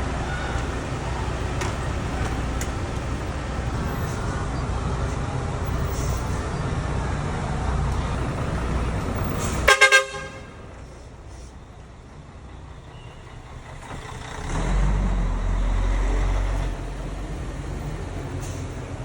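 Steady vehicle running noise, cut by a brief loud horn toot in three quick pulses about ten seconds in; then it goes quieter, and a low rumble swells up for about two seconds near the end.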